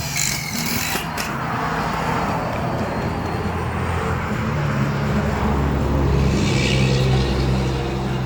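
Road traffic: motor vehicles passing, with a steady low engine hum and tyre noise that swells and fades.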